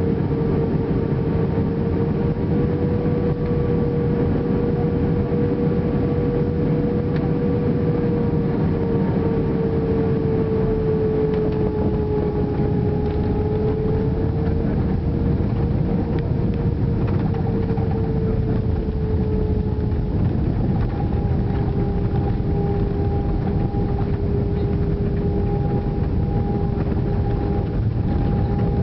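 Airbus A320 running on the ground after landing: a steady, loud rumble with a humming engine tone that drifts slightly in pitch, joined by a second, higher tone about two-thirds of the way through.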